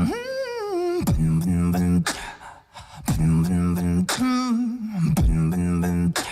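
Solo vocal beatboxing: a sharp kick-like hit about once a second, alternating between a low buzzing bass line and a sung tone that slides downward in pitch.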